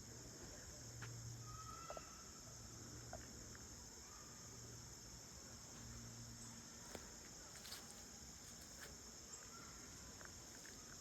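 Faint, steady high-pitched chorus of insects, with a few soft clicks scattered through it.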